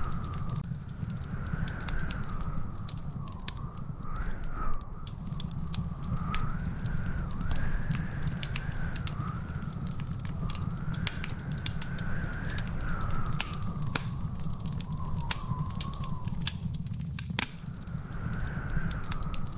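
Wood fire in a fireplace crackling, with frequent sharp pops over a low steady rumble. A thin whistling tone wavers slowly up and down behind it.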